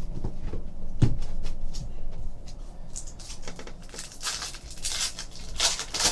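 Baseball cards being handled: a knock about a second in, then a run of short swishes and clicks as the cards are slid and flipped through.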